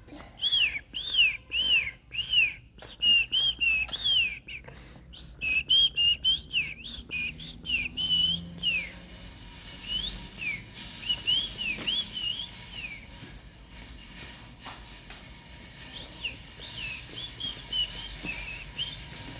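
High-pitched peeping calls of a baby animal, each a short rise and fall in pitch, repeated rapidly for about nine seconds and then sparser and fainter, with scattered clicks early on.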